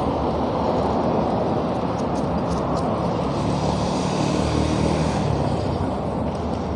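Steady rushing wind and road noise of riding a bicycle in traffic, with a vehicle's engine hum swelling and fading around the middle.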